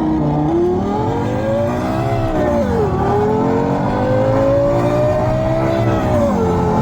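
Electronic fake-exhaust sound system playing a Ferrari-style engine note through a speaker. The note climbs steadily, drops sharply about two and a half seconds in as if shifting up a gear, climbs again, and drops once more near the end.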